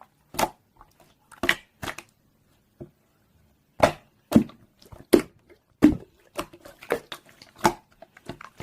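A dozen or so irregular short knocks and clicks with quiet gaps between, like small objects being handled or set down.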